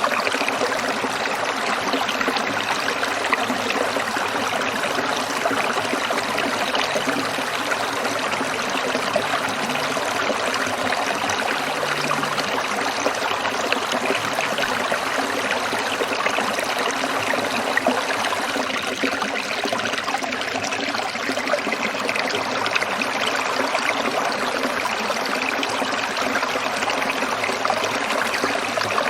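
Water of a small stream trickling, a steady, unbroken rush.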